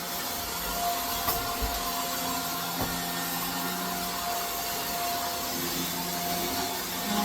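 Shark Stratos vacuum cleaner running steadily with a high whine, with a couple of light knocks about one and three seconds in.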